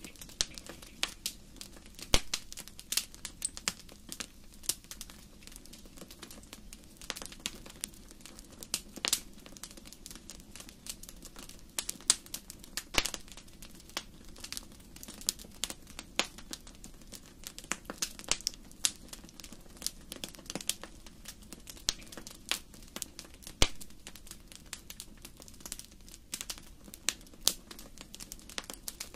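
Wood fire crackling in a fireplace: irregular sharp pops and snaps over a low, steady rush of the burning fire.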